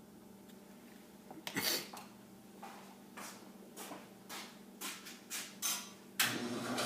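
Short scraping strokes on a small model part, about eight over four seconds, then steady filing begins about six seconds in.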